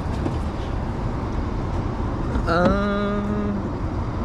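Heavy truck's engine idling steadily. Over it, a short pitched sound rises about two and a half seconds in and then holds for about a second.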